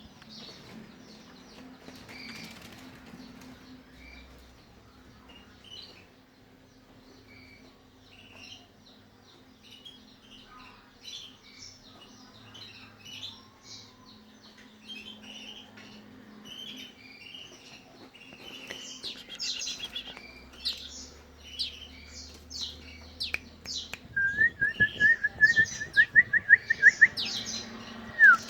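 Caged canaries and black-throated canaries chirping and singing, busier and louder in the last third, where one bird gives a fast run of about a dozen repeated rising notes lasting about three seconds.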